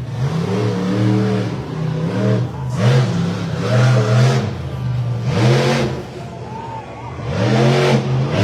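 Monster truck engine revving hard in repeated throttle bursts, its pitch climbing and falling with each blip.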